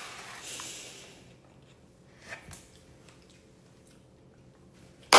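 Close-up eating sounds of fresh fruit being bitten and chewed: a soft crisp bite in the first second, then faint wet mouth clicks. A sudden loud noise bursts in right at the end.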